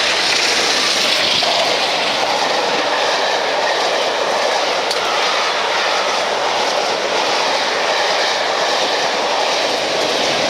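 Steam-hauled passenger train passing close by: the locomotive and then a line of carriages roll past in a loud, steady rush of wheels on rail.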